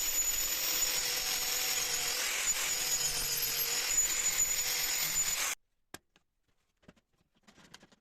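Electric power tool working wood, a steady noise with a thin high whine, cutting off suddenly about five and a half seconds in; then near silence with a few faint clicks.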